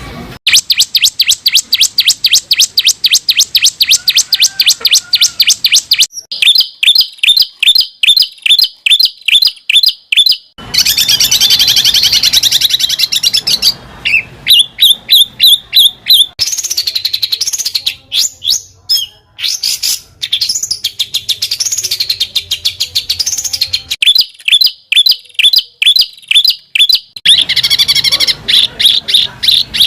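Songbird song: fast series of high repeated chips and trills that switch abruptly to a different phrase type every few seconds, with wavering whistled phrases around the middle.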